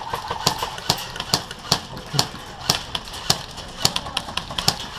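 Airsoft gun firing a series of single shots: sharp cracks at roughly two a second, unevenly spaced.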